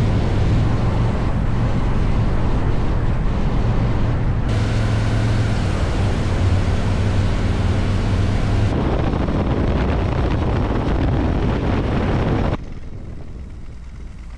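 Motorcycle engine running under way, with heavy wind noise on the microphone. The sound changes abruptly about four and a half seconds in and again about nine seconds in, then turns quieter about twelve and a half seconds in.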